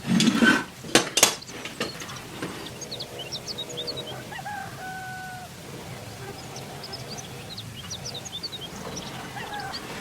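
Two sharp knocks about a second in, after a brief noisy burst at the start. After that a rooster crows once in the background, with small birds chirping throughout.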